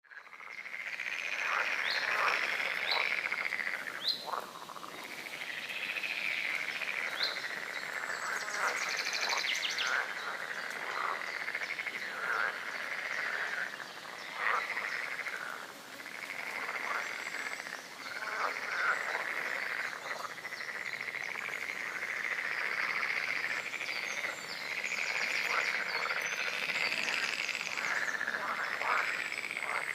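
Chorus of many frogs croaking continuously, the calls overlapping. A few short, high bird chirps sound over it, mostly in the first half.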